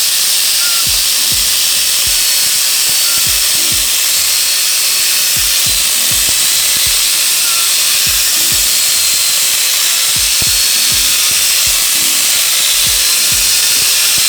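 Angle grinder fitted with a chainsaw-head attachment, running steadily with a hissing whine as its chain cuts across a hard wooden log.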